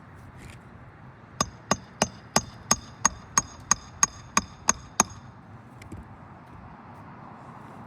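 A hand hammer striking metal twelve times in an even rhythm, about three blows a second, each with a short metallic ring, then it stops.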